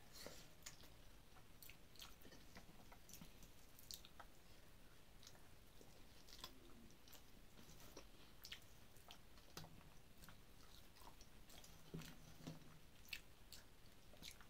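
Faint chewing and mouth sounds of a person eating by hand, with scattered soft clicks and smacks.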